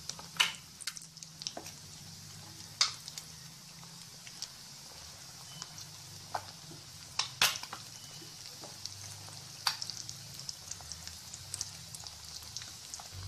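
Breadcrumb-coated egg kebabs frying in hot oil: a steady sizzle broken by scattered sharp pops and crackles, the loudest about seven seconds in.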